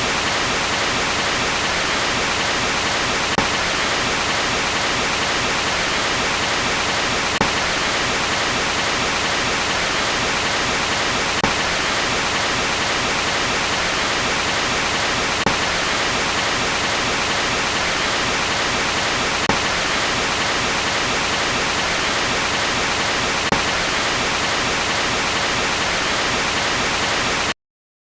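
Steady hiss of static-like white noise with a faint tick about every four seconds, cutting off suddenly into dead silence near the end.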